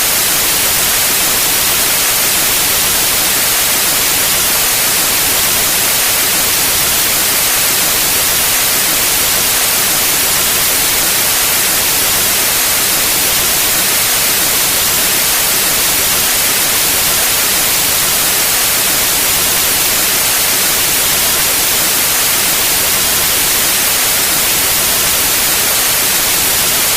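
Pure white noise: a steady, even hiss spread evenly over the whole range from low to high, with no change in level.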